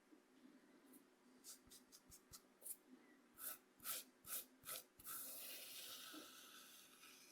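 Coarse cornmeal softly scraped across a bamboo cutting board: a run of short scratchy strokes, then one longer continuous scrape from about five seconds in that slowly fades.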